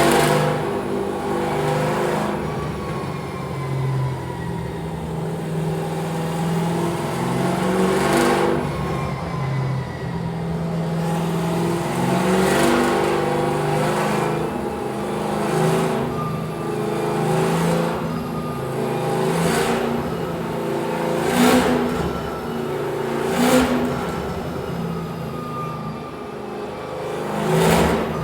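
Drift car's engine running and revving, with a sharp pop every couple of seconds.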